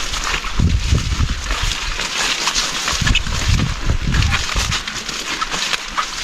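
Heavy rain pouring down in a steady hiss, with strong wind gusts buffeting the microphone in low rumbles about half a second in and again around three to four seconds in.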